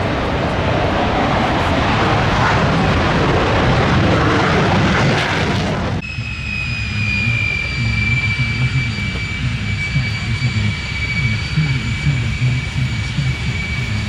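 Aircraft engine noise: a loud, steady roar, then after an abrupt cut about six seconds in, a high turbine whine that slowly drops in pitch over a low rumble.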